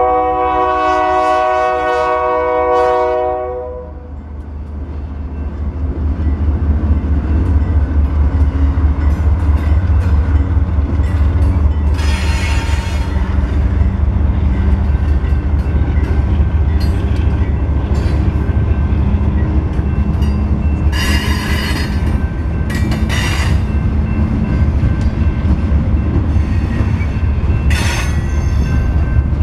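Freight train locomotive's horn holding a chord that cuts off about three and a half seconds in, then the train rolling past over the crossing with a steady, loud rumble of wheels on rail. Brief high-pitched wheel squeals break through a few times.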